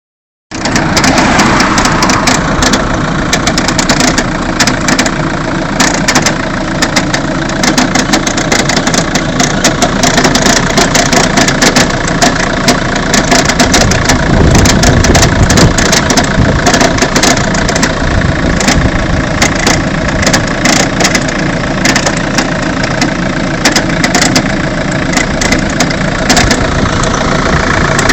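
Vauxhall/Opel Astra H 1.7 CDTI four-cylinder turbodiesel idling, with a crunching, irregular clicking from the engine bay over the engine note. The owner suspects it comes from the air-con compressor or somewhere near it.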